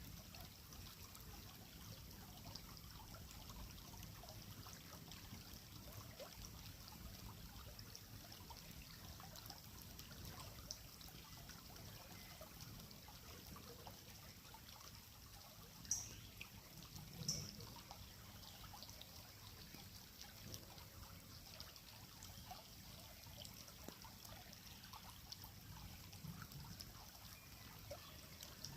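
Faint, steady trickle of creek water running over stones. About halfway through come two short, sharp sounds a little over a second apart.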